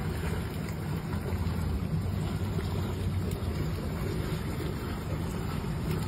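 Heavy rain falling steadily onto floodwater, with wind rumbling on the phone's microphone.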